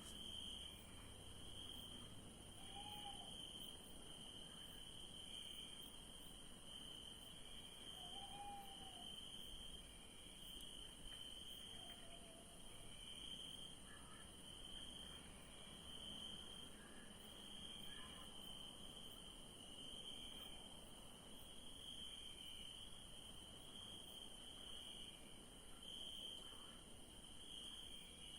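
Faint night-time cricket chorus: a steady high chirping trill that swells and fades over and over, with a second, higher continuous insect tone above it. A few short, low, arched calls come in during the first half.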